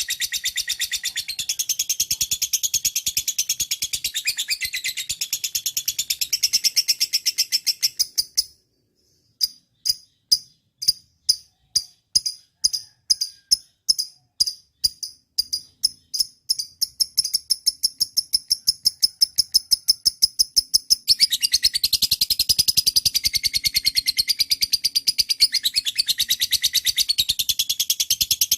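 Lovebird singing a long, fast, high-pitched chattering trill. It breaks off about a third of the way in, comes back as separate repeated chirps that speed up, and turns into unbroken chatter again about three-quarters of the way through.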